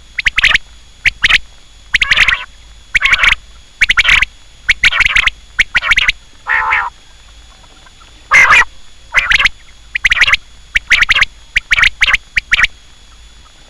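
Quail calling: short, loud calls repeated in quick succession, roughly one or two a second, with a pause of about a second and a half a little past the middle.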